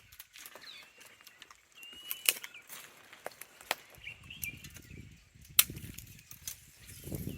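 Small birds calling with short whistled chirps, with several sharp knocks or snaps, the loudest about two-thirds of the way through. A low rumble joins from about halfway.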